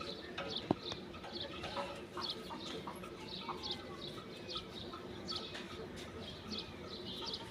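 Small birds chirping, many short high chirps repeating every second or so, over a low steady background hum, with one sharp click near the start.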